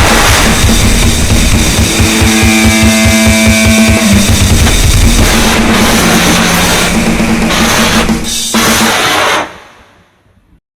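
Noisecore: a loud, distorted wall of noise with fast, pounding drums and cymbals. It cuts off abruptly about nine and a half seconds in, leaving a short near silence.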